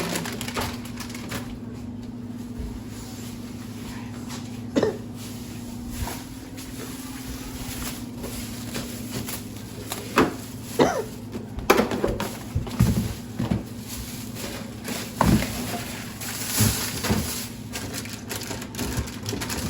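Household handling noises of groceries being put away: scattered knocks, clicks and crinkles of packages and containers, busier in the second half, over a steady low hum.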